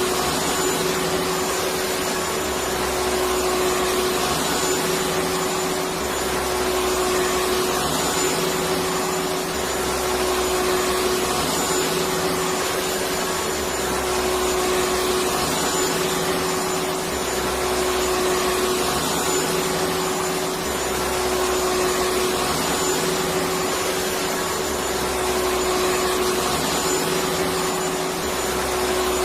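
Electric vacuum cleaner running continuously: a steady rushing noise with a constant hum-whine, swelling slightly every few seconds.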